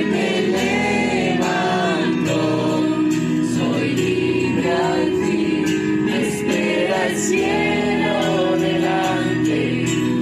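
A choir or congregation singing a Spanish-language Christian worship song with musical backing.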